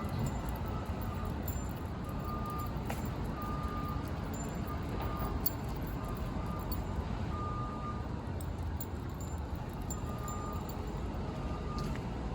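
City street ambience: a steady low rumble of traffic, with faint short high tones recurring every second or so and a few light clicks.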